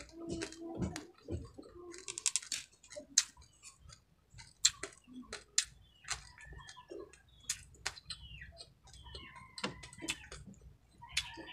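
Close-up chewing and crunching of crispy deep-fried baby crabs, with sharp irregular crackling clicks of the shells breaking between the teeth and softer wet mouth sounds in between.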